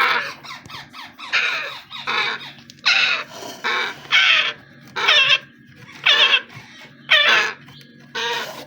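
Parrot chicks giving harsh, raspy, wavering calls over and over, one or two a second, over a low steady hum.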